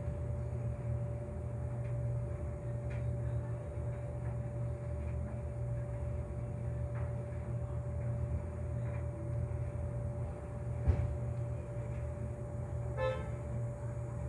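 Steady low mechanical hum with a constant tone running through it, broken by one sharp knock about eleven seconds in and a short pitched beep near the end.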